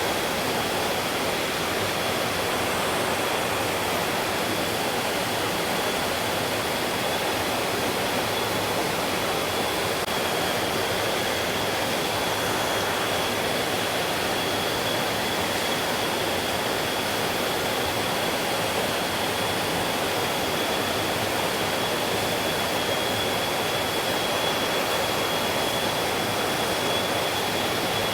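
Mountain stream rushing steadily over rocks, an even continuous water noise. A thin, steady high-pitched tone runs through it.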